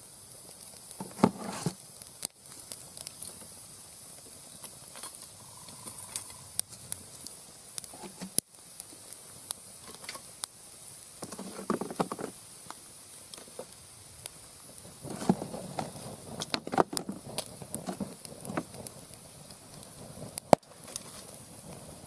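Wood campfire burning: scattered sharp crackles and pops over a steady hiss, with a few duller rustling bursts about a second in, around the middle and again later on.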